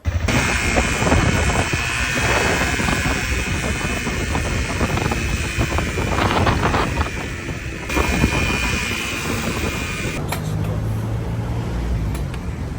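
Dirt bike riding along, its engine running under heavy wind rush on the microphone. The sound starts suddenly and stays steady, with a lower engine hum coming through near the end.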